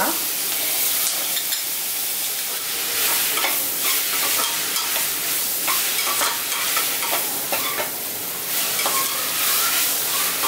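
Sliced onions and ginger-garlic paste sizzling in hot oil in an aluminium pressure cooker. A slotted metal spatula scrapes and knocks against the pot as the mix is stirred.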